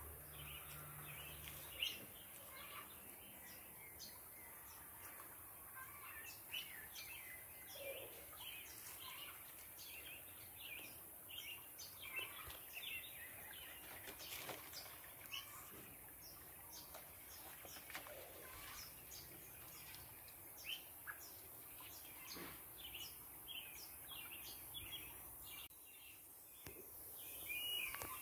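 Small birds chirping in many short, scattered calls over a faint steady hiss, with a brief rush of noise near the end.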